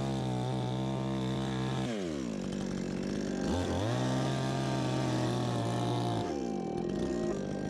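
Chainsaw engine held at full throttle, then released so its pitch drops. It is revved up again, held, and let fall back to idle a second time.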